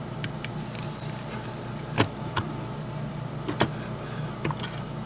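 Small sharp clicks and taps of model locomotive parts being handled and fitted together on a workbench, the loudest about two seconds in and again past three and a half seconds, over a steady low hum.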